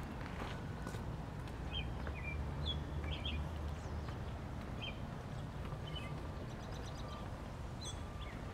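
Songbirds chirping in short scattered notes, with a quick high trill near the end, over a steady low background rumble.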